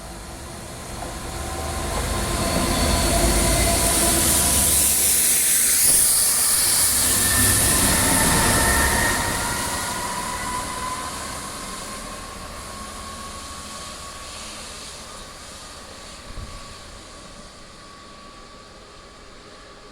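A pair of Class 66 diesel-electric locomotives, each with a two-stroke V12 diesel, pass hauling a rail treatment train. The sound builds from about a second in, stays loud for several seconds with a low engine rumble, a strong high hiss and long high-pitched tones that slide slightly in pitch, then fades away slowly.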